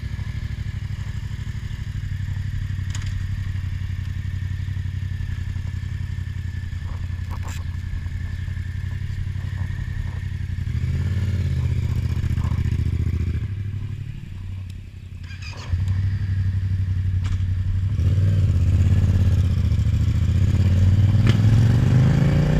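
Yamaha MT-07 parallel-twin motorcycle engines idling at a standstill, with a brief rise in revs about halfway through. In the last few seconds the bike pulls away and its engine note climbs as it accelerates.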